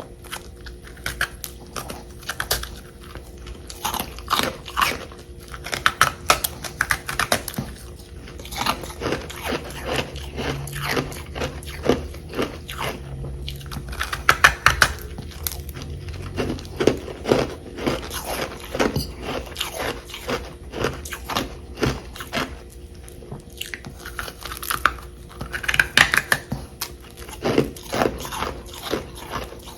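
Close-up crunching and chewing of frost chunks from a humidifier: rapid, dense crackly crunches as the frozen pieces are bitten and chewed.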